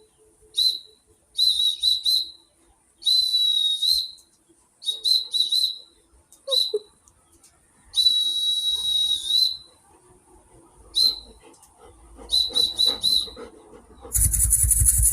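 A whistle blown in a run of short and long blasts at one high pitch. Some blasts come in quick groups of three or four toots, two are held for about a second or more, and each starts with a brief upward slide.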